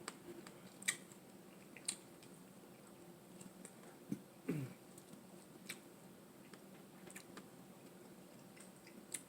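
Quiet eating and food handling: a few scattered sharp clicks and taps of seafood and utensils, with a short falling hum about four seconds in.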